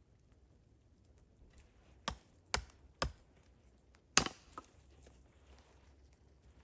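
Four sharp knocks, the first three about half a second apart and the loudest about a second after them, followed by a lighter tap.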